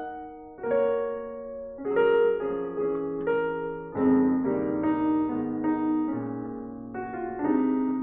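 Piano music: slow chords and a simple melody, each note held and ringing before the next.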